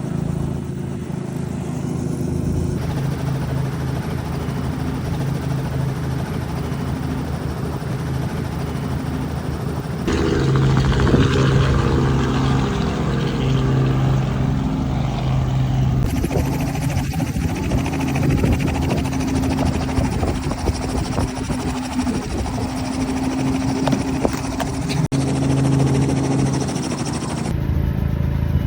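Helicopter engine and rotor running steadily, a low droning hum heard across several cut-together clips.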